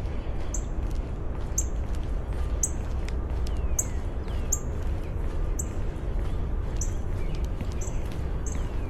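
Wind rumbling on the microphone, with a bird repeating a short, high note about once a second and a few faint descending whistles from other birds.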